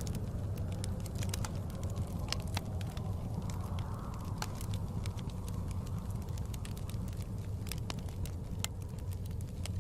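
Wood fire crackling in a fireplace, with irregular sharp pops and snaps over a steady low rumble, and blizzard wind swelling and easing.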